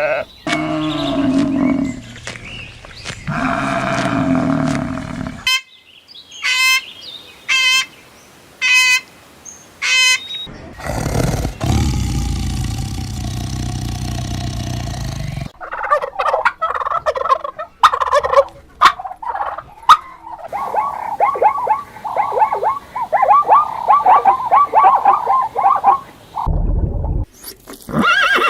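A string of different farm-animal calls one after another: sheep bleating at the start, a few short calls, a noisy stretch in the middle, then a turkey gobbling in long rapid rattling bursts.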